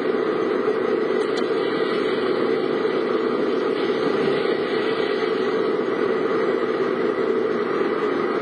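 Steady running noise of a car heard from inside the cabin, an even hum with no changes.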